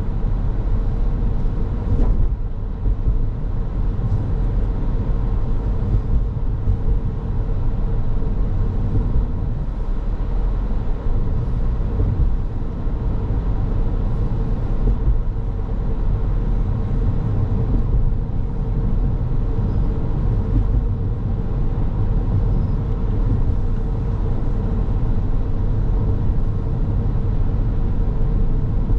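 Car on the move: steady road and engine noise, a low rumble with a faint steady hum running through it.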